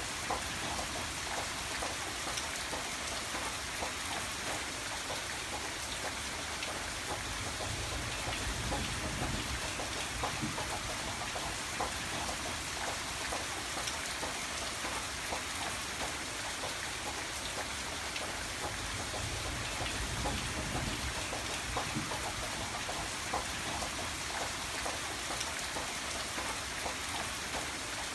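Steady rain falling, many small drop hits over an even hiss. A low rumble swells twice, about nine and twenty seconds in.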